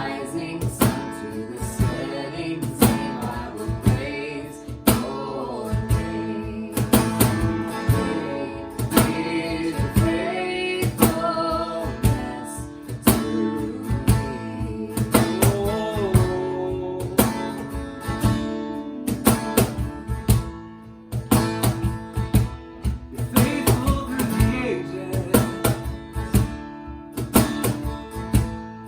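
Live worship band music: strummed acoustic guitar over a steady beat, with a sung melody line weaving over the chords.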